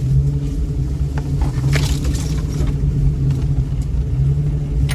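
Lifted 2000 Jeep Cherokee's engine running steadily at low revs as it crawls down a rough trail, with a few sharp knocks and a brief scraping hiss about two seconds in.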